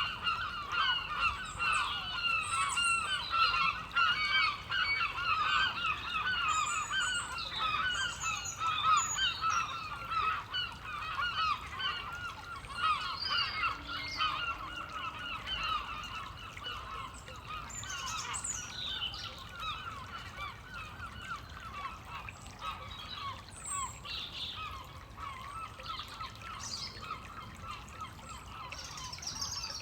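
A large flock of gulls calling as it flies overhead, many overlapping calls that thin out and fade over the second half. Small woodland songbirds sing high chirps through it, over the trickle of a stream.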